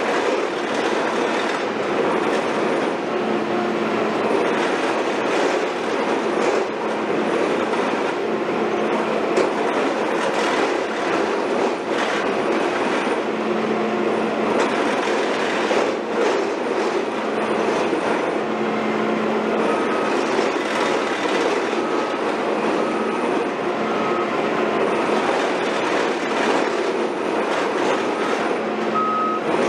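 Heavy tracked construction machinery, such as an excavator or a drilling rig, running steadily with metallic clanking, and short squeaks repeating in the second half.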